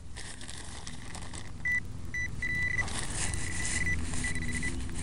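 Metal detector giving its high, steady target tone over a coin just under the grass: two short beeps, then longer held tones that keep coming back, with some rustling in the grass.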